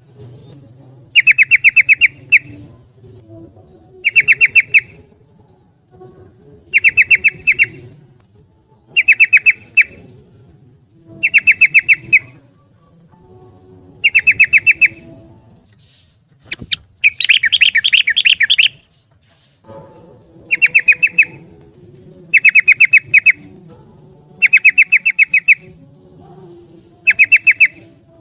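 Yellow-vented bulbul (trucukan) song: short bursts of rapid chattering notes, repeated every two to three seconds, with one longer, louder burst about two-thirds of the way through.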